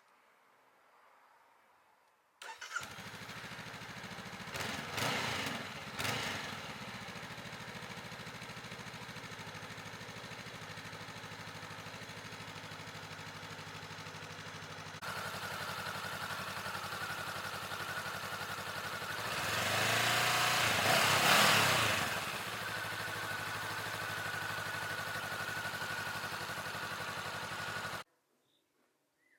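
2023 Honda CB500F's parallel-twin engine breathing through a LeoVince LV10 exhaust: it starts about two seconds in, takes two quick blips of the throttle, and settles to a steady idle. Past the middle it is revved up and back down over a couple of seconds, idles again, and stops suddenly near the end.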